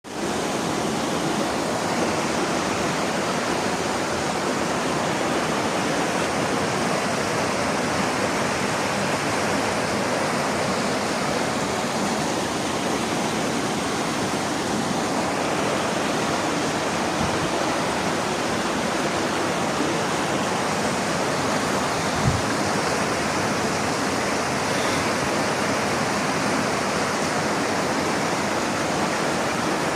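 Creek water rushing steadily over rocks, with one dull low knock about three quarters of the way through.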